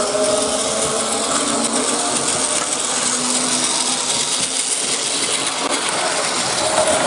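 A train running steadily, a continuous noise with a few faint held tones underneath.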